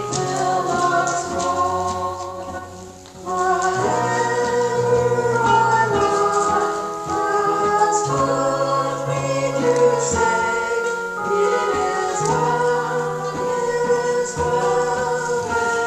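Choir singing a slow hymn in sustained chords that change every couple of seconds, dipping briefly about three seconds in.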